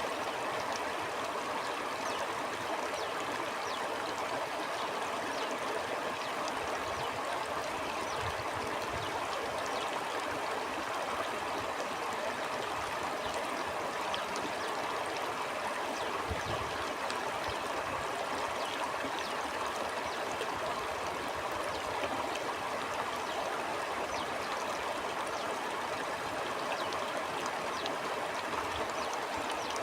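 Stream water rushing and gurgling steadily over stones, with fine splashing ticks throughout. A few soft low rumbles come and go.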